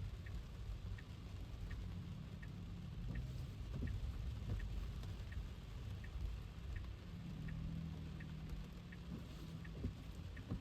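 Car turn-signal indicator ticking steadily, about one and a half ticks a second, over a low rumble of tyres on a wet road and rain, heard inside the cabin.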